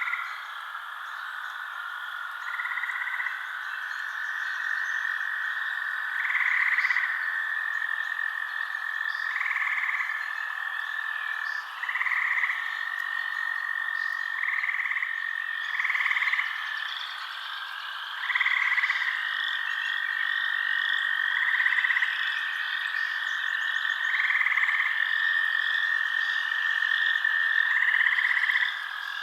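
A chorus of frogs calling, with long steady trills and short louder calls repeating every two to three seconds over a higher continuous chirping.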